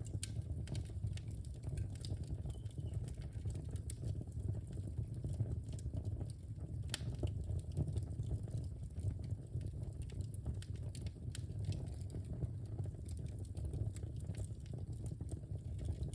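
Wood fire in a fireplace crackling: irregular sharp pops and snaps over a low steady rumble of the flames, with a few louder pops.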